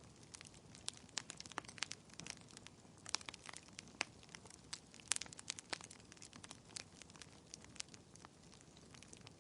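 Wood fire crackling: irregular sharp pops and snaps, several a second, over a low steady hiss, with the loudest pop about five seconds in.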